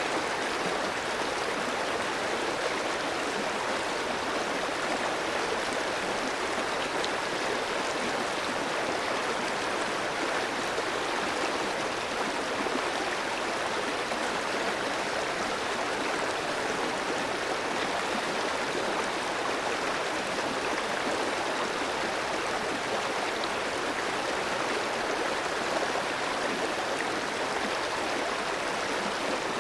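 Clear stream flowing steadily over rocks, a constant rushing of water without breaks.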